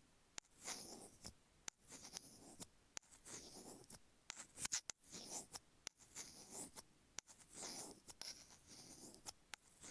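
Stainless steel ear pick scraping the grooves of an iPhone earphone microphone's grille, heard through that same microphone. It makes a gritty scratch about once a second, with sharp clicks between the strokes.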